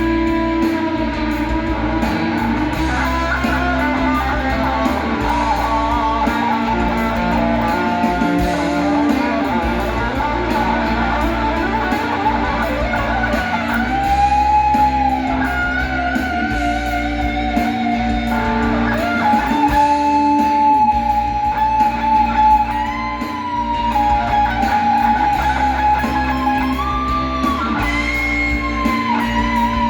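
Instrumental guitar music in D minor: an electric lead guitar plays held notes with upward string bends over a steady bass and backing.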